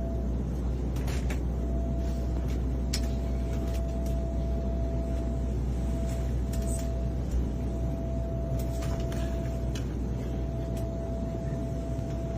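Airliner cabin noise in flight: a steady low rumble from the engines and airflow, with a thin steady whine over it and a few scattered small clicks and rustles.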